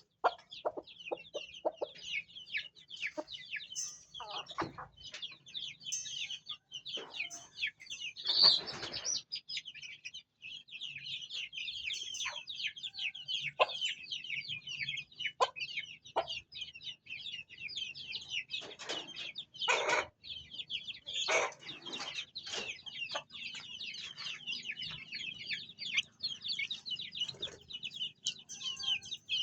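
Many young chicks peeping continuously in a high, overlapping chatter, with scattered sharp taps and knocks.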